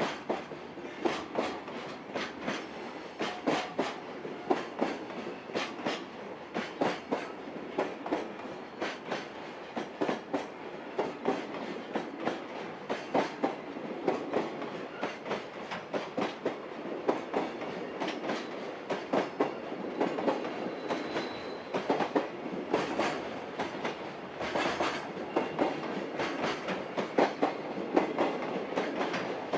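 Container freight train rolling past at speed, its Koki wagons' wheels clicking steadily over the rail joints.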